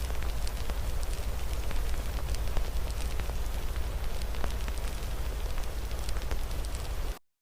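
Wood fire crackling with many sharp pops over a steady hiss of rain and a low rumble. The sound cuts off suddenly near the end into silence.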